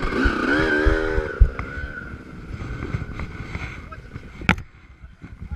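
Dirt bike engine running, with wind thumping on the microphone. A voice calls out briefly near the start, and there is a sharp click about four and a half seconds in.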